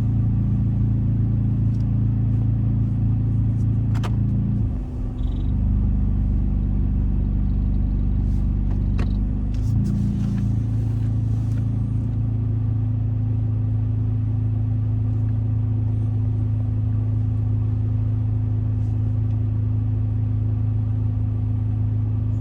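Straight-piped 2.4-litre four-cylinder of a 2004 Honda Accord with a cold air intake, droning steadily at cruise, heard from inside the car. About five seconds in the note briefly dips and changes, then returns to the steady drone about ten seconds in.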